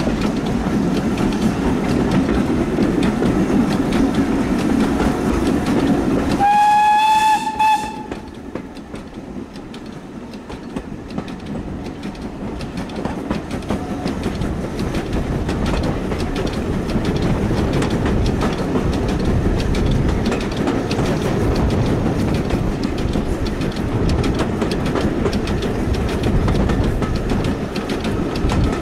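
Heritage train running on the rails, heard from aboard. About six seconds in, the locomotive's whistle sounds once for about a second and a half. The running noise drops suddenly there, then builds back up with the clatter of the wheels.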